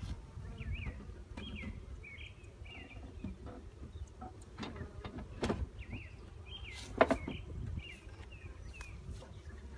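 A small bird chirping over and over in short, quick notes, over a low rumble of wind. Two sharp knocks come about five and a half and seven seconds in, the second the loudest sound.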